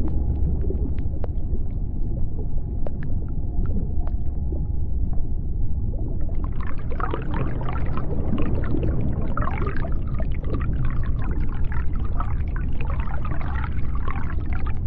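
Underwater ambience: a steady deep rumble with scattered sharp clicks. From about six seconds in come many overlapping whale calls that sweep up and down in pitch.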